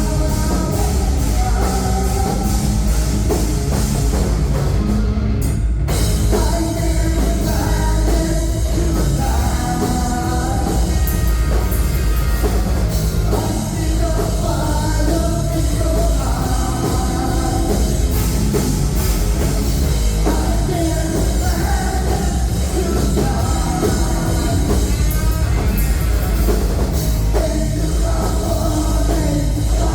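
Live rock band playing loud, with drum kit, guitars and a singer.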